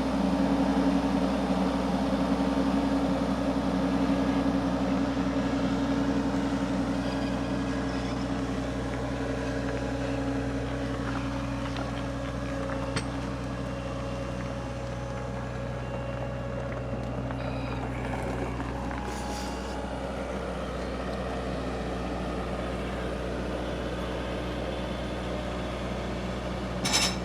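Skid steer's diesel engine running steadily, slowly getting quieter over the first half, with a single sharp click partway through.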